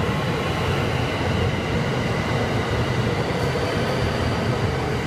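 Electric train running past on the tracks: a steady, loud mix of wheel and running noise with faint steady humming tones.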